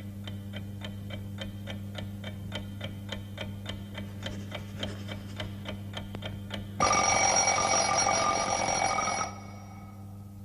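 Clock ticking fast and evenly, about three or four ticks a second, then an alarm clock bell ringing loudly for about two and a half seconds, about seven seconds in, and cutting off abruptly.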